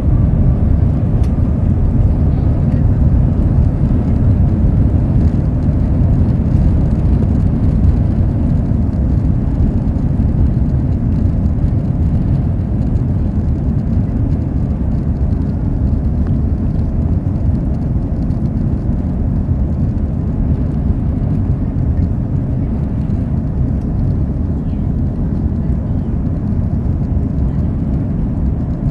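Steady low rumble inside the cabin of an Airbus A330-300 during takeoff: its Rolls-Royce Trent 700 engines at high thrust, mixed with airflow noise. The rumble eases slightly toward the end.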